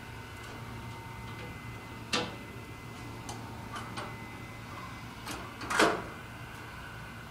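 A few scattered sharp clicks and knocks over a low steady hum, while the flooded tractor engine sits unstarted.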